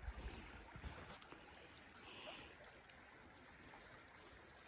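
Near silence: faint outdoor ambience with a few soft low rumbles in the first second or so.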